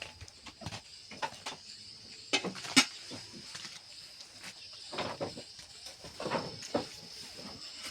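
Scattered light knocks and clicks of pots and kitchen utensils being handled, the sharpest about three seconds in, over a faint steady high-pitched tone.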